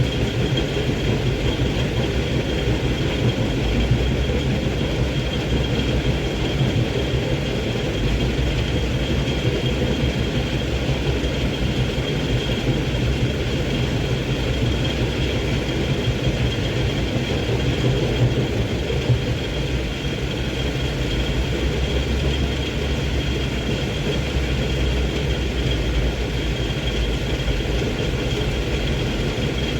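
Hino 500 dump truck's diesel engine running steadily under a full load, a deep even rumble with a thin steady high whine over it.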